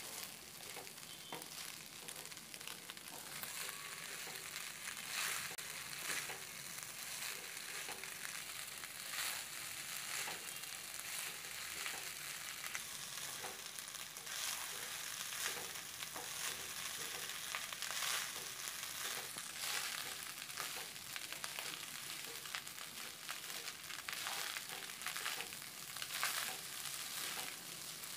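Fried rice ingredients sizzling in a hot pan while being stirred, with frequent short scraping knocks against the pan.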